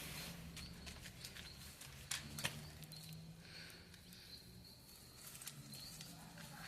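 Faint crackling of a small paper-and-firewood bonfire catching, with scattered sharp pops and a louder cluster of them about two seconds in. Faint short high chirps repeat in the background.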